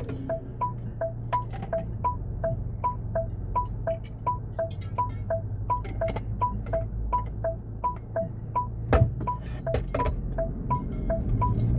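Car turn-signal indicator ticking steadily in alternating high and low clicks, about three a second, over a low engine and road hum. There is a single thump about nine seconds in.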